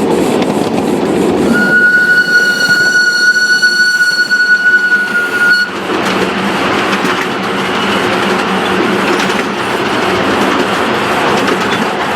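A train running with a clattering, rushing sound. About a second and a half in it sounds one long steady horn blast of a single pitch, which stops abruptly about four seconds later while the running noise carries on.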